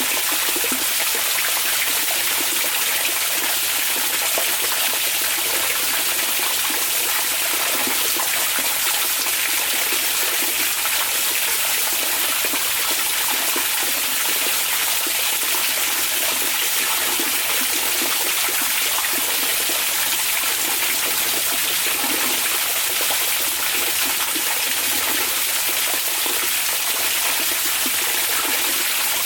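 Hot spring (onsen) water flowing in a steady, even rush with no change or break.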